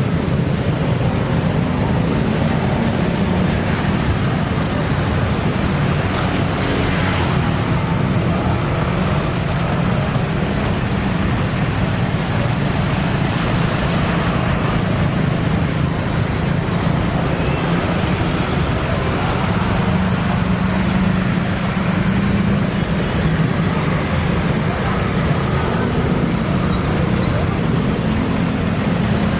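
Steady, loud rumble of vehicle traffic with no distinct events.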